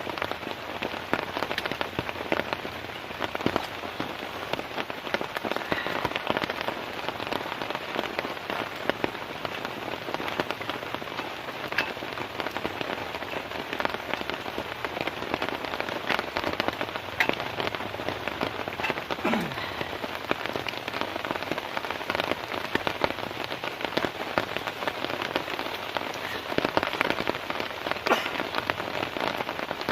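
Heavy rain falling steadily, with frequent sharp individual drop hits on a close surface.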